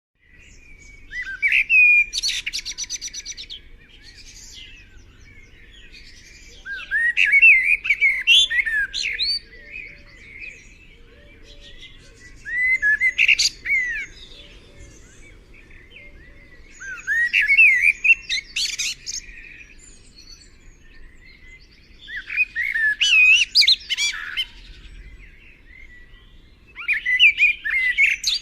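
A small bird singing in repeated phrases of quick, warbling chirps and buzzy notes, about six phrases a few seconds apart with short pauses between.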